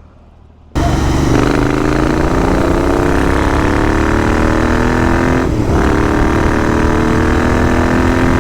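A 650 scrambler motorcycle's engine running under way. It cuts in suddenly near the start, then holds a steady note whose pitch slowly eases down.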